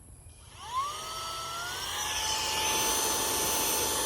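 LFSMGS cordless handheld vacuum switched on about half a second in: its small motor spins up with a rising whine, then runs steadily with a high whine and airy hiss.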